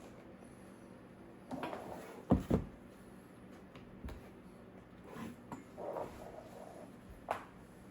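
Scattered handling sounds: rustling, two quick knocks about two and a half seconds in, and a sharp click near the end.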